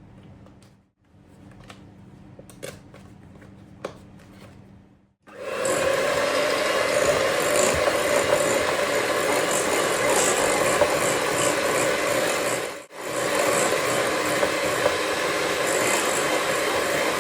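A small electric kitchen appliance, such as a food chopper, starts about five seconds in after a few soft clicks and runs steadily with a gritty, rasping grind. It stops briefly about thirteen seconds in, then starts again.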